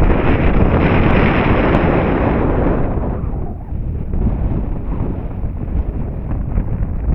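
Electric ducted-fan RC jet rushing past, its fan whine fading out about three seconds in. Heavy wind buffeting on the microphone rumbles throughout.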